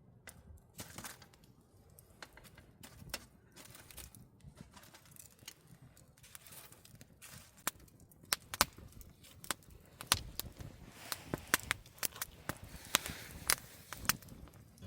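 Wood campfire crackling, with irregular sharp pops that come thicker and louder in the second half.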